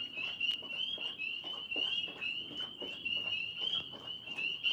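A chorus of frogs calling, many short, high, slightly rising peeping notes overlapping in an unbroken stream.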